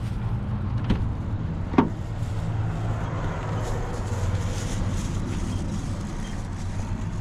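An engine running steadily at idle with a low, even hum, broken by a faint click about a second in and a sharper short knock just before two seconds.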